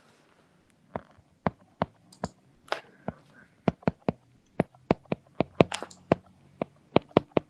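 Computer keyboard typing: irregular, sharp key clicks starting about a second in.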